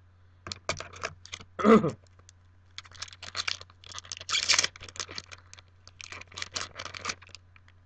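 Crinkling and clicking of a foil Yu-Gi-Oh! booster pack being torn open and its cards handled, in quick irregular clusters, with one louder burst a little under two seconds in.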